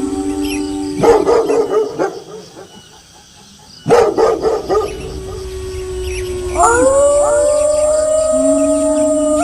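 Wolves howling in long, steady, pitched calls, broken by two clusters of barking about one second and four seconds in. Near the end several howls glide up together into an overlapping chorus.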